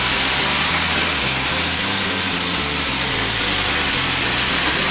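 Turkey bacon sizzling in a frying pan, a steady hiss.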